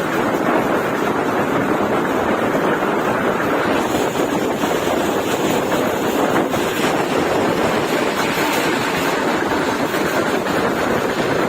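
Steady rushing noise of a passenger train on the move, heard from on board, with wind buffeting the microphone; an even roar with no distinct clacks or horn.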